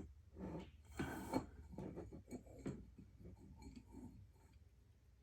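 Light clinks and ticks of metal lamp post sections being handled and fitted together, with a couple of louder knocks about a second in, then fainter taps.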